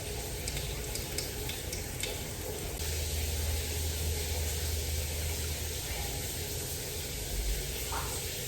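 Shower water spraying steadily, a continuous hiss, with a low hum swelling for a few seconds in the middle.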